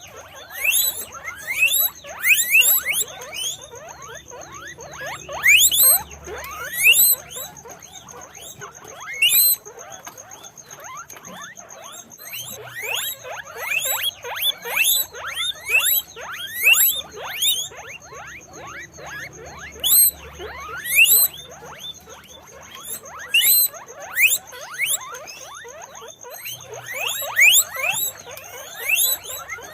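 Several guinea pigs squeaking: many short, rising, whistle-like squeaks that overlap and come in louder bursts.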